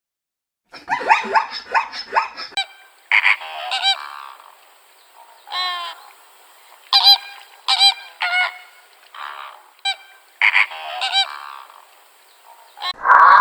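Goose-like honking bird calls: a quick run of calls about a second in, then single honks and short pairs spaced a second or so apart.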